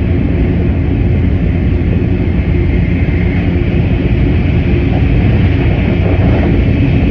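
Steady running noise of a Sanyo Shinkansen bullet train at speed, heard from on board: a loud, even low rumble with a fainter hiss above it.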